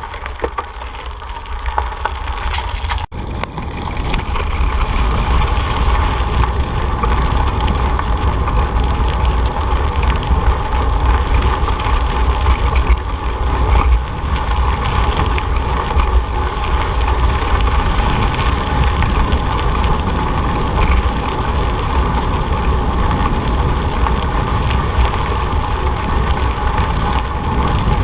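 Wind buffeting the microphone of a moving rider, a loud, fluctuating rumble with steady road noise beneath it. It builds over the first few seconds as speed picks up, then holds steady.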